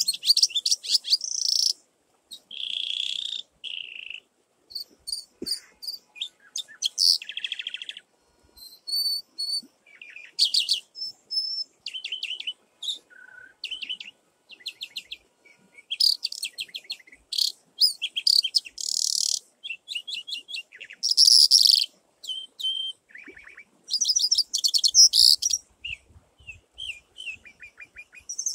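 Songbirds chirping and singing in quick, varied high-pitched phrases of chirps and trills, with short gaps between them.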